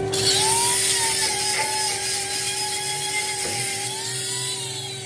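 A power tool starts suddenly and runs with a high whine and a loud hiss. The pitch of the whine wavers, and the tool eases off near the end.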